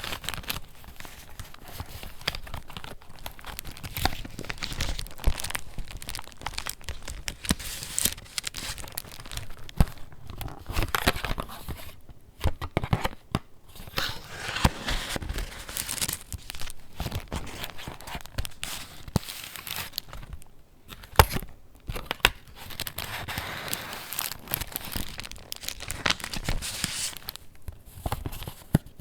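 Pages of a handmade paper junk journal being turned and handled: irregular rustling and crinkling of paper with sharp little clicks and taps, pausing briefly now and then.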